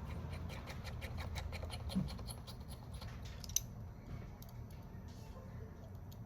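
Small metal repair tools working on a smartphone's parts: a rapid run of light clicks, about seven a second, ending in one sharper click, then a few scattered ticks.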